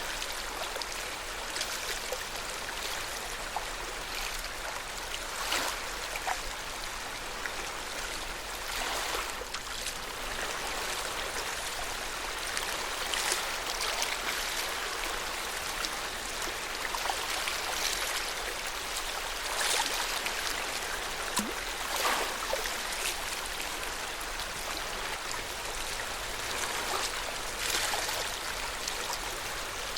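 Lake water lapping and splashing: a steady wash with irregular small splashes every second or two.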